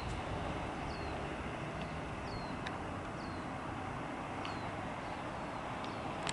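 Steady distant rumble of a Boeing 757 jet airliner passing overhead, with a bird repeating a short, high, falling chirp about once a second and a sharp click at the very end.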